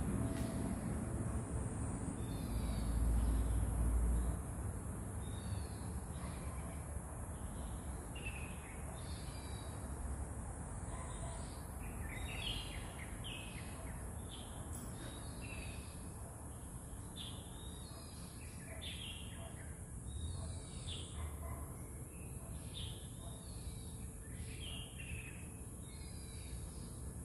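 Small birds chirping repeatedly, short high calls several times a second, over a steady high hiss. A low rumble, the loudest thing, comes about three seconds in and fades.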